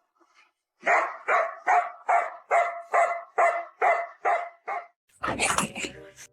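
A dog barking rhythmically, about ten evenly spaced barks at roughly two and a half a second, each at much the same pitch. About five seconds in, the barking stops and a brief, noisier sound of a different kind follows.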